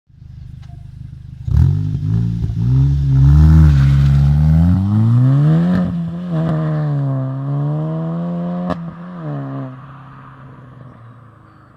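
SEAT Leon Cupra 290's turbocharged 2.0-litre four-cylinder through a resonator-deleted exhaust with Ultersport mufflers, jumping up loudly about a second and a half in and then rising and falling in revs, with a few sharp cracks along the way. It settles back to a low, steady idle near the end.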